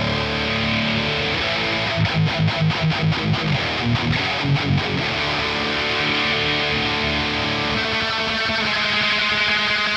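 Distorted electric guitar music with sustained chords. Between about two and five seconds in, a fast chugging rhythm of roughly six hits a second comes in underneath.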